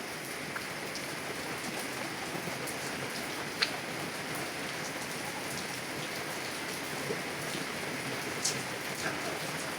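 Heavy rain falling on a car, heard from inside the cabin: a steady hiss with individual drops ticking against the glass now and then, the sharpest a little after three and a half seconds in.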